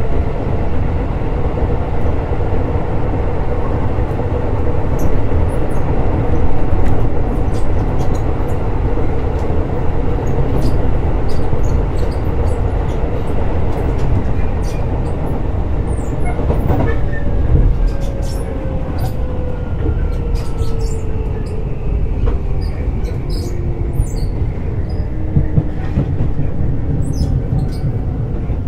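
Keisei 3600 series electric train running: a steady rumble of wheels on rail with a motor whine that begins to fall in pitch a little past halfway, sinking steadily as the train slows, with scattered sharp clicks over it.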